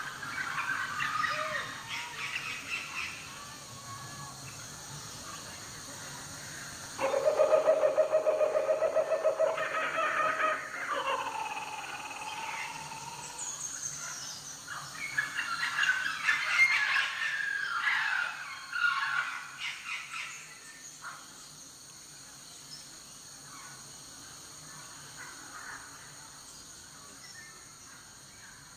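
Bird calls and chirps on a dance soundtrack: scattered chirps, a loud rapid trill about seven seconds in, a busy run of chirps and squawks a little past the middle, then fading to a quiet background.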